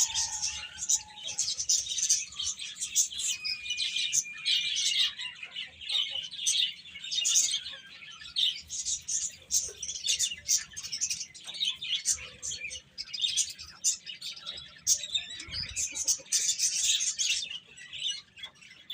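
A group of baby chicks peeping continuously, many short high chirps overlapping.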